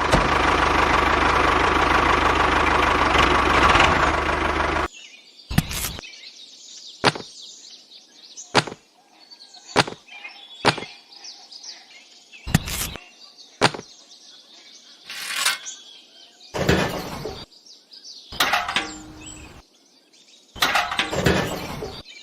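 A small engine or motor running steadily, cut off abruptly about five seconds in. After it come a dozen or so separate sharp clicks and knocks, a second or so apart.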